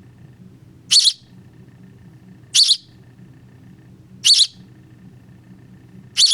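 Nestling bird chirping: four loud, high, shrill chirps about one and a half seconds apart, each a quick double note.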